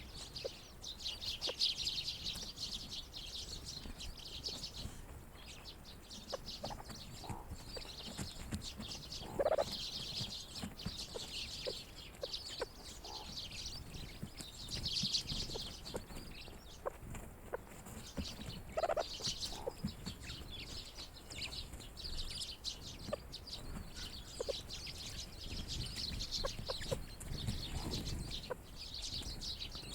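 A flock of grey partridges and small winter birds calling together: a continuous high twittering and chattering, with two louder, lower calls about a third and about two-thirds of the way through.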